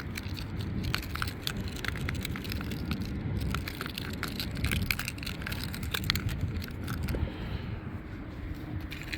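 Wind rumbling on the phone's microphone, with many irregular sharp crackles and clicks as a dug-up scrap of trash and the loose soil around it are handled.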